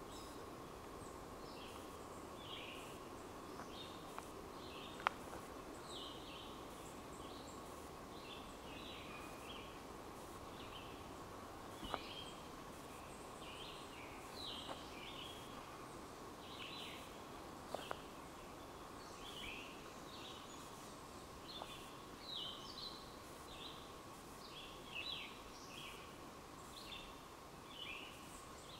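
Songbirds chirping: many short calls one after another, faint, over a steady thin hum. A few sharp clicks are heard.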